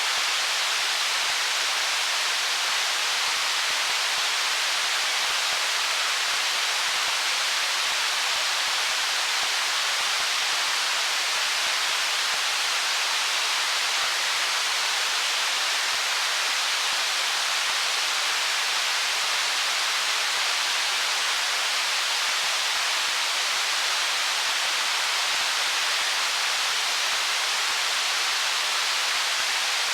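Flowing stream water giving a steady, unvarying rushing hiss, mostly high in pitch with little low rumble.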